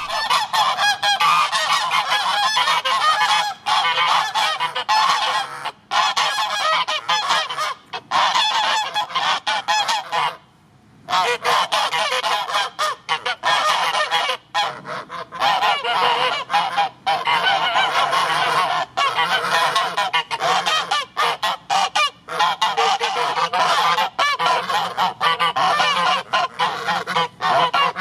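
Flock of domestic geese honking loudly, many calls overlapping almost without pause, with a brief lull about ten seconds in.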